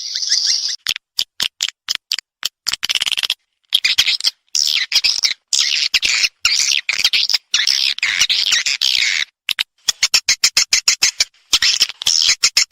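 Swiftlet calls: high, rapid chattering twitters and clicks in bursts broken by short silences. This is a 'respon' swiftlet call track of the kind played to draw swiftlets into a nesting house.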